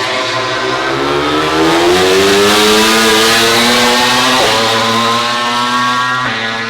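MotoGP racing motorcycle engine accelerating hard, its pitch climbing steadily, then dropping sharply at an upshift a little over four seconds in and again near the end. It is loudest about halfway through.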